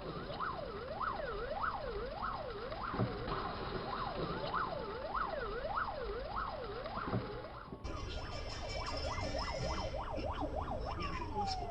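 Police car siren in a rapid rising-and-falling wail, about two sweeps a second. After a cut about eight seconds in, a siren sweeps faster, then one long falling tone winds down near the end.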